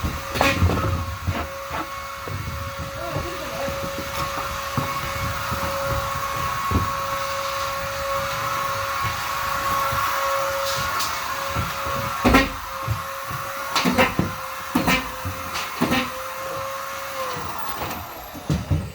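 Vacuum cleaner running with a steady whine, with scattered knocks and bumps as it is worked. Near the end its motor is switched off and the whine dips and dies away.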